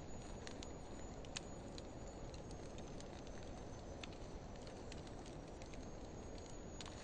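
Wood fire of driftwood and dry hardwood burning, with scattered small crackles and one sharper pop about a second and a half in, over a steady low rushing noise.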